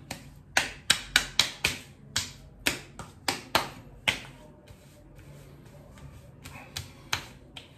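Open palms slapping and patting aftershave onto a freshly shaved face and bald scalp: a quick run of sharp slaps in the first two seconds, then slower single pats, a pause, and two more near the end.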